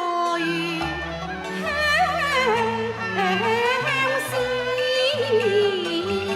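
Cantonese opera music: a wavering, ornamented melody line over held low accompaniment notes that change every second or so.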